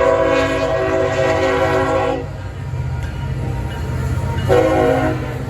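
Locomotive air horn blowing a long blast of about two seconds, then a shorter blast about four and a half seconds in, over a steady low rumble.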